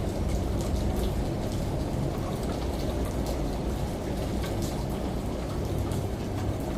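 Rain with scattered sharp drips, layered over the steady low hum of a running washing machine.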